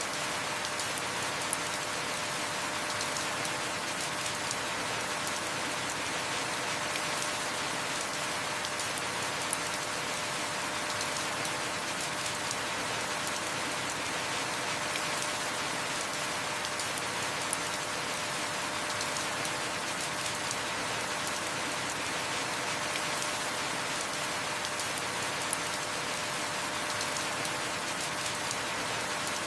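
Heavy rain falling steadily, a dense even hiss of drops with scattered sharper drop clicks.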